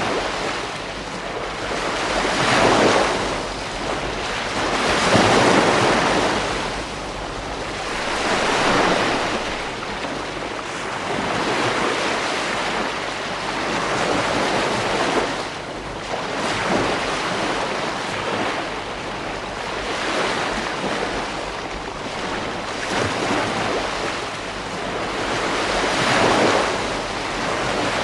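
Ocean waves breaking and washing on a beach, a continuous surf hiss that swells with each wave every few seconds, with wind noise on the microphone.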